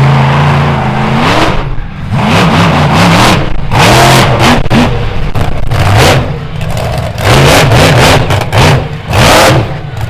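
Monster truck engine revving hard in repeated surges, its pitch climbing and dropping about once a second, with several loud full-throttle blasts.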